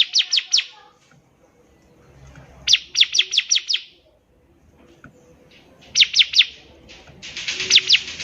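Bar-winged prinia (ciblek) singing: short bursts of quick, falling high chirps, each burst of about four to seven notes, separated by pauses of a second or two. A harsh buzzy rasp joins in near the end.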